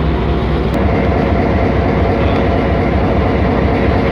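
Train running steadily, a loud, even rail noise heavy in the low end.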